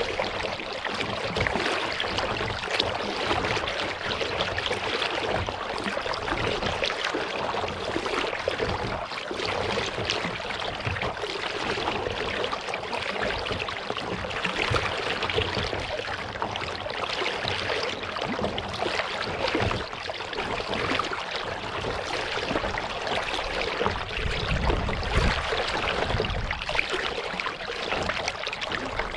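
Kayak paddle dipping and dripping, with water splashing and trickling along the hull as the kayak moves over the lake.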